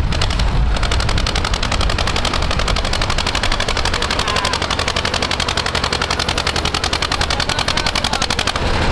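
Tractor diesel engine running hard at high revs, its exhaust a rapid, even rattle of pulses.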